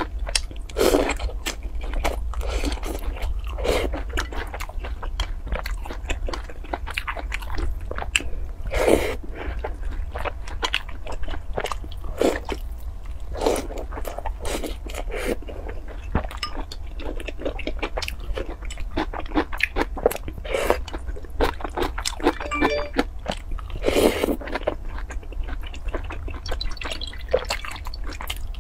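Close-miked eating: wet chewing and biting of soft fried pieces soaked in a milky liquid, with many sharp mouth clicks and smacks and a few longer, fuller chews.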